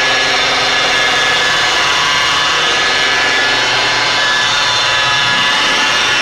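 Electric car polisher (buffer) running steadily with a continuous whine, its blue foam pad working a very fine finishing compound wet over the paint.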